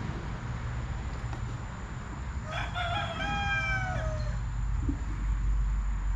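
A rooster crowing once, a drawn-out call with a slight fall in pitch that starts about two and a half seconds in and lasts nearly two seconds, over a steady low rumble.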